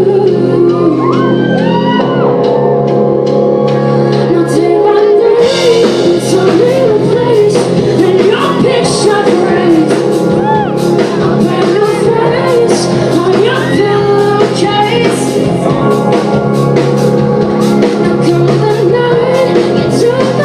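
Rock band playing live, with a female lead singer and shouted voices over sustained chords; the drums and cymbals grow busier about five seconds in. The recording is loud and thin, with almost no bass.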